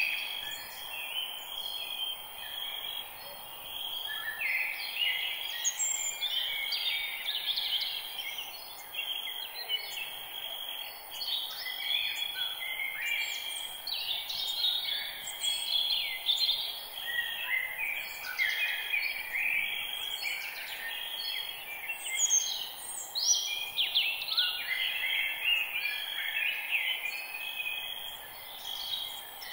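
A dense chorus of many wild birds chirping and singing at once in a forest, with short overlapping calls and trills, over a faint steady background hiss.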